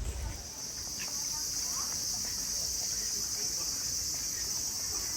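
A steady, high-pitched chorus of insects, setting in just after a brief low thump at the very start.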